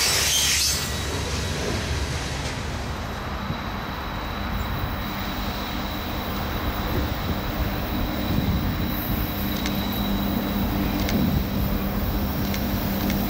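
Loaded coal hopper cars rolling past briefly, then a coal train's diesel locomotives approaching, their engine sound growing steadily louder over the last several seconds.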